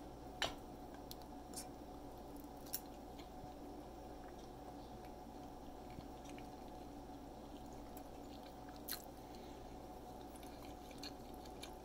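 A person chewing a mouthful of vegan sausage and vegetable scramble, faint, over a steady low hum. A few short sharp clicks, the loudest about half a second in.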